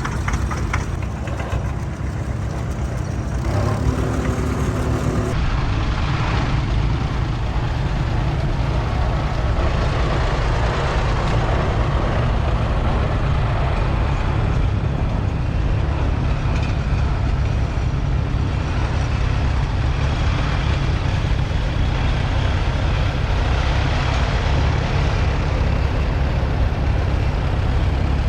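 Farmall H tractor's four-cylinder engine running steadily under way, heard loud and close from the driver's seat, with a constant rush of noise over the engine.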